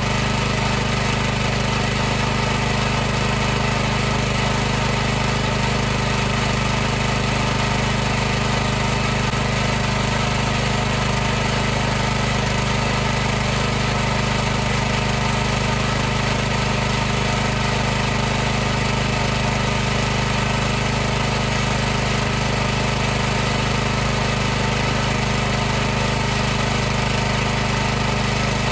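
High-pressure washer running steadily: a constant machine hum with a held pitch and overtones over a hiss, unchanging throughout.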